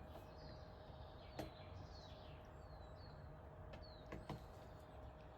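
Faint woodland birdsong: short, high, downward-sliding chirps repeated every second or so over a quiet background, with a few soft clicks.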